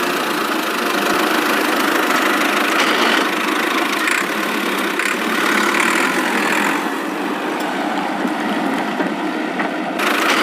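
An engine running steadily at idle with a dense, even noise and no clear note.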